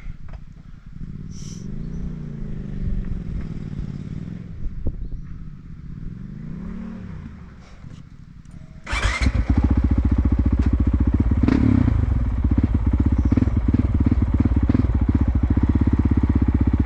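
Dual-sport motorcycle engines. For the first half, a bike is heard at a distance, revving up and down as it climbs a rough trail. About nine seconds in, a motorcycle engine close by cuts in suddenly and runs loud and steady with a fast, even beat.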